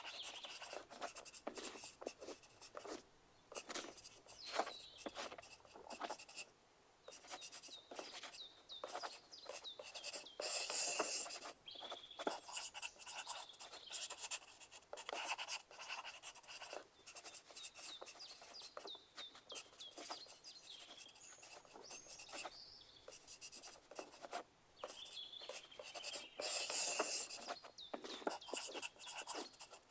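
Pencil writing on paper: quick, continuous scratching strokes with brief pauses. The writing gets louder and busier for a moment twice, about ten seconds in and again near the end.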